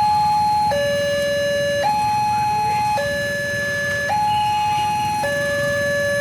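Electronic two-tone warning alarm sounding a steady high–low pattern, each tone held a little over a second, with no change in pitch. A low rumble runs underneath.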